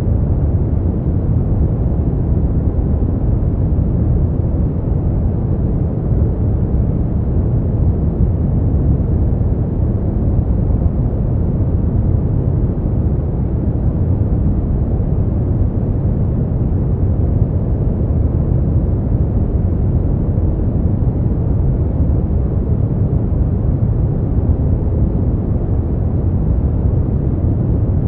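Continuous sleep noise, steady and unchanging, deep and muffled with almost nothing in the high range, so it sounds like a low rushing rumble rather than bright hiss.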